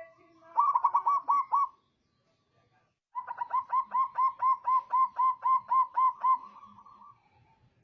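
Zebra dove (perkutut) cooing: a short run of about five notes, a pause of over a second, then a longer run of about fifteen quick, evenly spaced notes that trails off.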